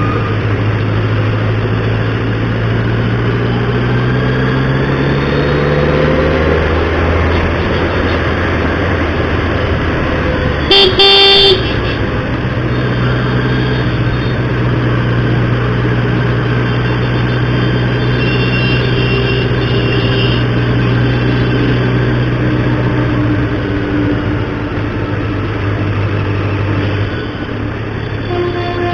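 900 cc motorcycle engine running on the move, rising in pitch as it accelerates a few seconds in and then holding steady, through a stock exhaust. A vehicle horn blasts once, briefly, about eleven seconds in.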